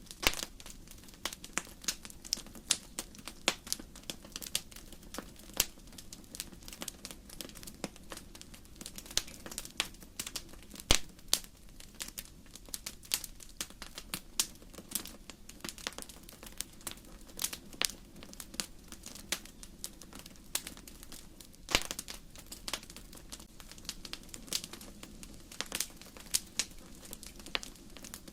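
Wood fire burning in a fireplace: logs crackling and popping in quick, irregular sharp snaps over a faint steady low rumble of the flames, with one especially loud pop about eleven seconds in and another strong one a little past twenty seconds.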